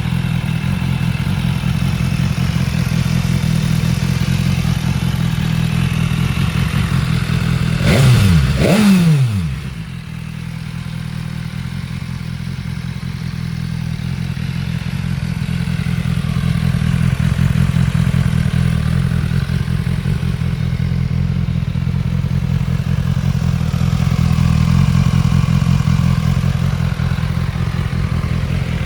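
BMW S 1000 XR's inline-four engine idling steadily, blipped twice in quick succession about eight seconds in, the revs rising and falling straight back to idle.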